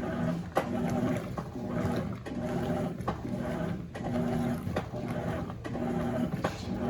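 Electrolux LF90 top-load washing machine agitating during a towel prewash: the motor hums and the agitator swings back and forth in a steady rhythm, reversing about once every second with a short click at each reversal.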